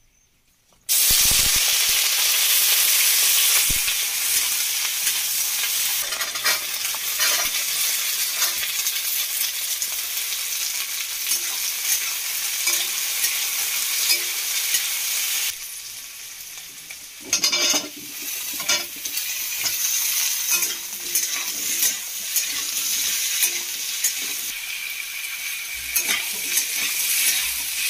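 Vegetables sizzling in hot oil in a steel kadhai, stirred with a metal spatula that scrapes and clinks against the pan; the frying starts about a second in. The sizzle drops low for a couple of seconds about halfway through, then picks up again after a burst of scraping.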